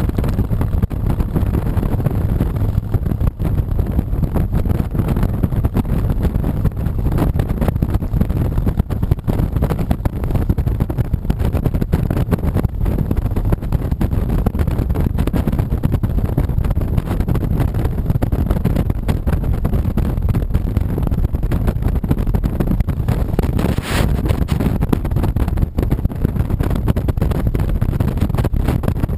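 2007 Honda VTX 1300C V-twin engine running steadily while riding, with wind noise on the microphone. There is a brief sharp click about 24 seconds in.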